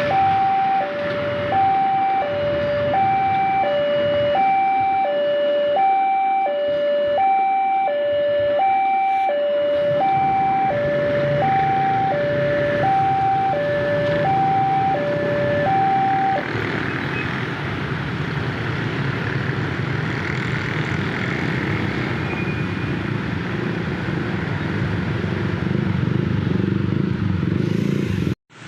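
Railway level-crossing warning alarm sounding an electronic two-tone high-low signal, about one high-low pair a second; it stops about sixteen seconds in. A low rumble builds from about ten seconds in and carries on after the alarm stops.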